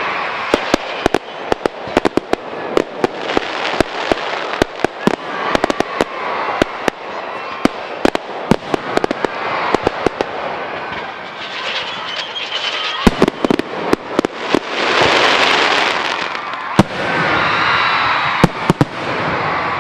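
Fireworks display: a rapid barrage of sharp bangs with crackling between them. The bangs thin out in the second half, where a louder, steady crackling wash takes over, with a few last bangs near the end.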